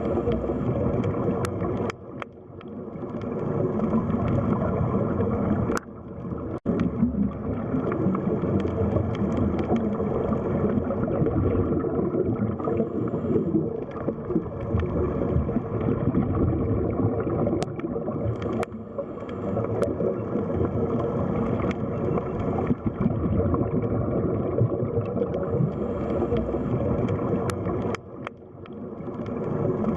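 Muffled underwater sea ambience: a steady low rushing and gurgling of water that swells and eases, dipping briefly twice, with a few faint clicks.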